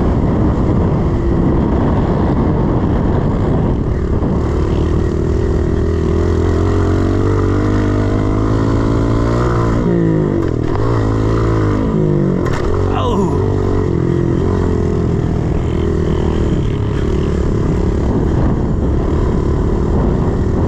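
A 110cc pit bike's four-stroke single-cylinder engine working hard as it is ridden round a dirt track. The engine pitch keeps rising and falling with the throttle, with a quick swoop up and down about halfway through.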